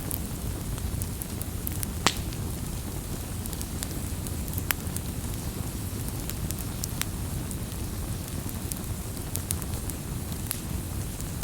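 Wood fire crackling, with a steady low rumble beneath scattered sharp pops; the loudest pop comes about two seconds in.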